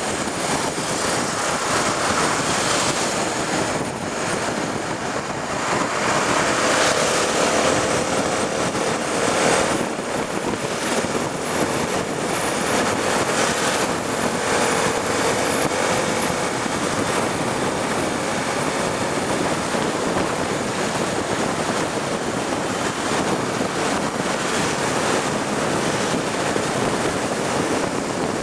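Honda Tornado 250 single-cylinder motorcycle riding at highway speed: a steady rush of wind and road noise, with the engine running underneath.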